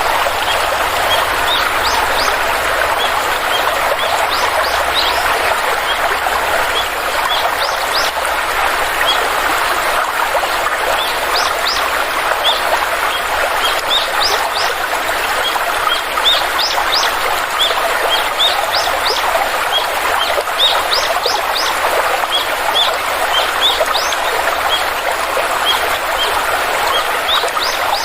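Stream water flowing steadily, with birds chirping over it in many short, high chirps that come in quick runs, busier in the second half.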